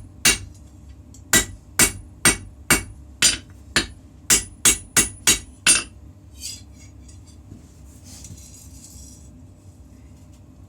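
Hand hammer striking hot steel on an anvil while forging a puukko blade: sharp ringing blows, one at the start, then a run of about eleven that speed up and stop about six seconds in. A steady low hum runs underneath, with a faint rattle and a brief hiss near the end.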